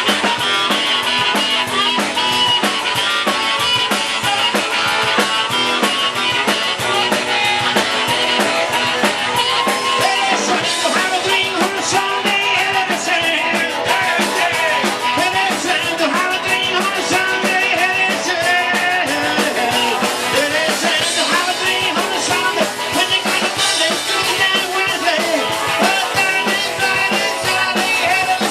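Rock and roll band playing live: drum kit keeping a fast, busy beat under guitar, with a lead line that bends up and down in pitch through the second half.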